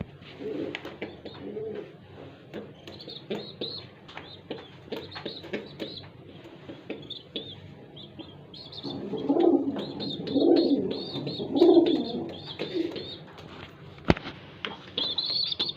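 Domestic pigeons cooing in several low phrases, loudest about nine to thirteen seconds in, with short high chirps and squeaks throughout.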